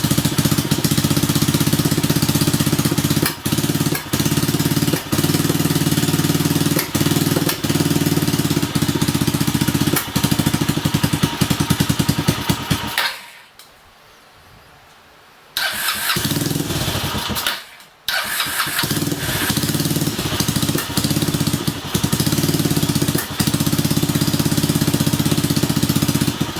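Kawasaki Estrella's single-cylinder engine running roughly, stumbling with frequent brief dips. It cuts out about thirteen seconds in and comes back a couple of seconds later. It is running very badly, which the owner puts down to the carburettor, due for another overhaul.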